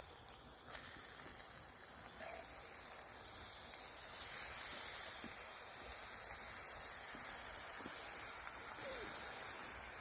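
Pork loin chops sizzling in a pan over a campfire: a steady hiss that swells a little about four seconds in.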